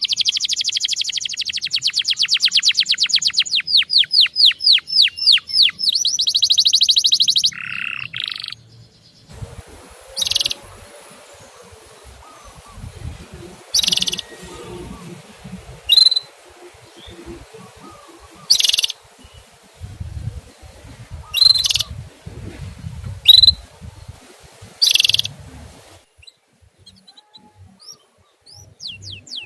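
Male canary singing: a fast trill of rapidly repeated sweeping notes for about seven seconds, then single short 'cuit' chirps every two to three seconds.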